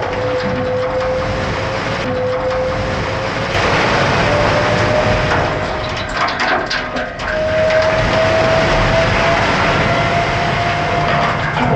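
A vehicle engine running steadily, with a drone that slowly rises in pitch. A burst of clanks and rattles comes about six to seven seconds in.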